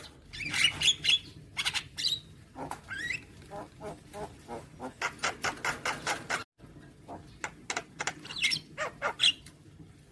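Javan myna (jalak kebo) calling: a busy jumble of harsh chattering notes and short rising whistles, with a fast run of clicking notes around the middle. The sound cuts out briefly about six and a half seconds in, then the calling resumes.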